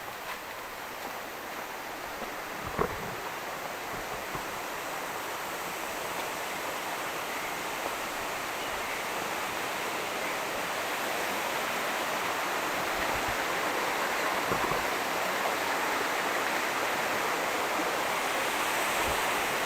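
Waterfall's falling water rushing as a steady noise that grows gradually louder. A short knock comes about three seconds in.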